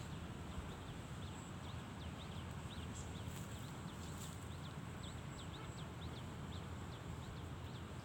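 Outdoor ambience: small birds chirping, short quick high chirps a few times a second, over a steady low rumble.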